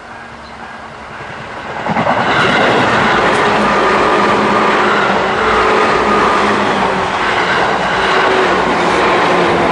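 An electric commuter train on the Tobu Tojo Line passes over a level crossing. It builds over the first two seconds, then stays loud with the clatter of the wheels as the cars go by. The crossing's warning bell is ringing at the start.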